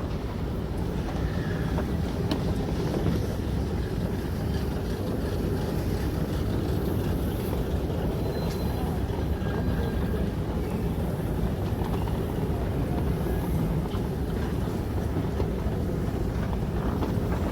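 Steady low rumble of a vehicle in motion, with a few faint ticks.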